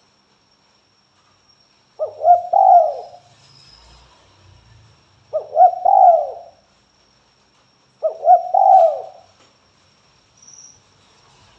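Spotted dove (tekukur) cooing: three call phrases a few seconds apart, each a quick run of short notes ending in a longer falling coo.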